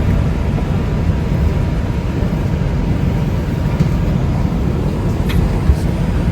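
Steady low rumble of a New York City subway train (5 line) standing at a station between announcements, heard from inside the car.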